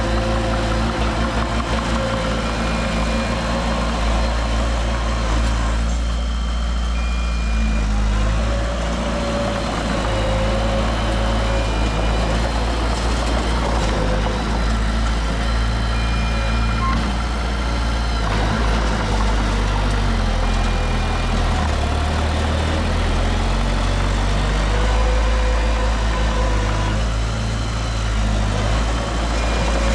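Heavy diesel machinery engines running steadily with a deep rumble, the pitch rising and falling slightly with load, while a short high beep sounds about every four to five seconds.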